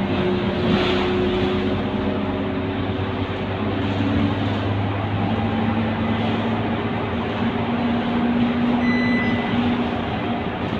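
Scania K230UB bus's diesel engine running under way, a steady drone over road noise, its pitch shifting slightly about five seconds in.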